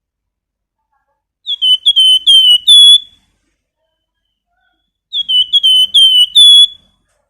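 A flamboyan songbird giving two short whistled phrases a couple of seconds apart, each a run of about five quick, hooked notes ending on a longer, steady whistle.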